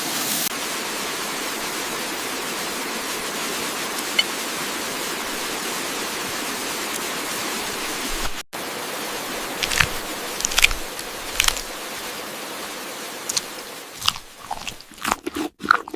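Steady sizzle of bulgogi beef frying in a pan. About eight seconds in it breaks off, and scattered crunches and clicks of chewing follow, growing busier near the end.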